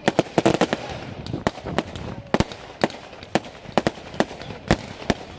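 Fireworks display: a rapid, irregular string of sharp bangs and cracks, several a second, with a crowd's voices faintly beneath.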